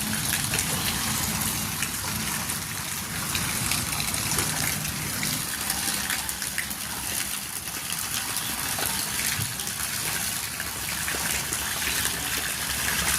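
Floodwater rushing and gushing in a steady, unbroken stream.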